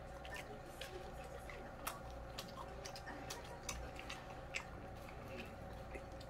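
A person chewing fried chicken, with small scattered mouth clicks. A steady hum runs underneath.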